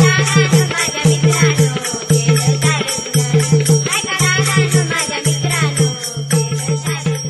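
Instrumental Indian folk music: a hand drum beating a quick, steady rhythm with evenly spaced jingling cymbal ticks over it and a wavering melody line.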